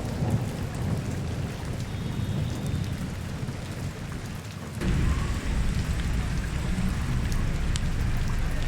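Steady rain falling on a city street over a low rumble; the rumble gets suddenly louder just before halfway.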